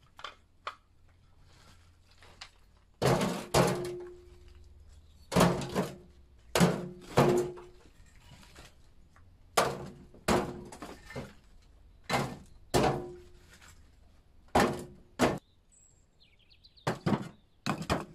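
Demolition blows on brickwork: heavy thuds, mostly in pairs about half a second apart every two to three seconds, several with a brief ringing note.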